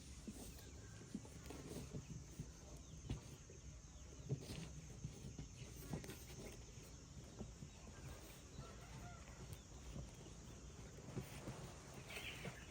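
Faint chicken calls, one brief call near the end, over scattered knocks and rustling.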